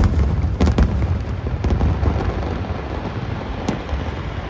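Fireworks bursting overhead. A cluster of sharp bangs comes about half a second in, with single bangs later, over a continuous low rumble of booms.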